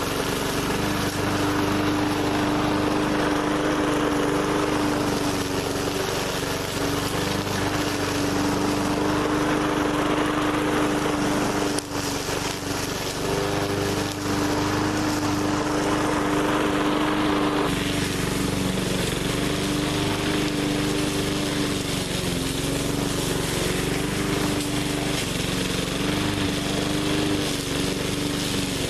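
20-inch walk-behind push mower's small petrol engine running steadily, its pitch wavering slightly now and then as it works through brush.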